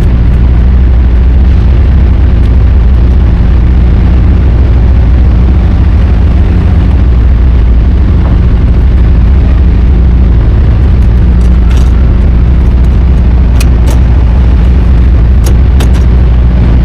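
Loud low rumble of wind buffeting the microphone over the steady drone of an idling diesel semi-truck engine, with a few faint clicks near the end.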